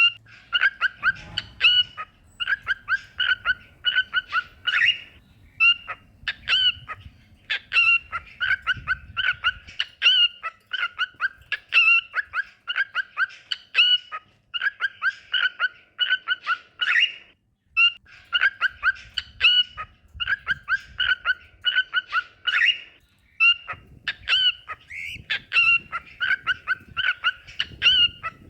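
Cockatiels singing: rapid runs of short, repeated whistled chirps, in phrases broken by brief pauses.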